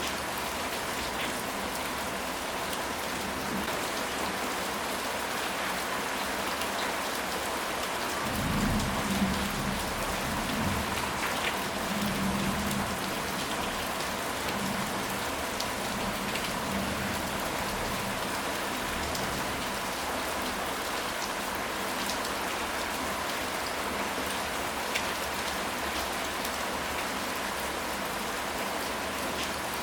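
Steady rain falling, with a low rumble of thunder rolling for several seconds starting about eight seconds in.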